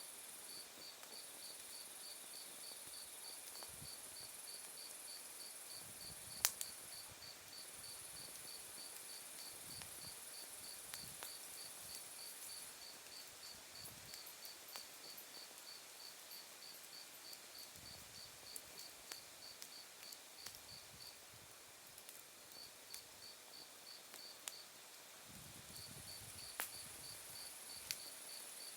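Autumn night insects singing: one cricket gives a regular high chirp about three times a second, while a continuous very high trill drops out about halfway and comes back near the end. A wood fire crackles now and then with sharp pops, one louder pop about six seconds in.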